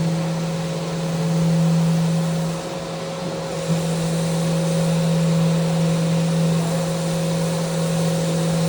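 Electric power sander running steadily, a constant motor hum under the hiss of sanding, with a brief dip in level about three seconds in.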